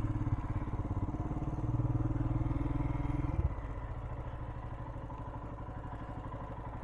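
Royal Enfield Himalayan's single-cylinder engine running at low revs with an even pulsing beat, louder for the first three and a half seconds, then dropping suddenly to a quieter steady beat.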